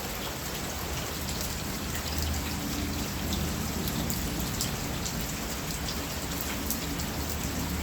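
Steady rain falling on the ground and standing water, with scattered individual drop ticks.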